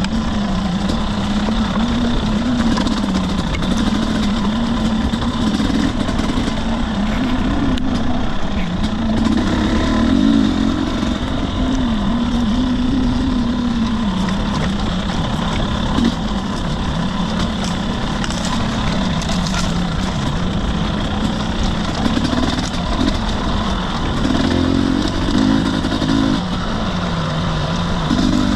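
Husqvarna TE250i's two-stroke single-cylinder dirt bike engine running on trail, its revs rising and falling continually with throttle changes. A single sharp knock about sixteen seconds in.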